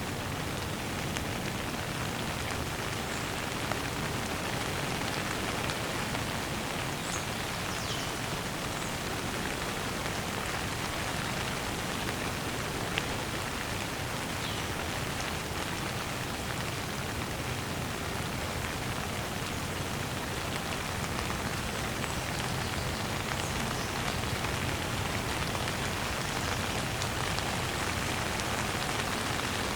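Steady rain falling on a surface, a dense, even patter of drops, with a few faint high downward-sliding whistles now and then.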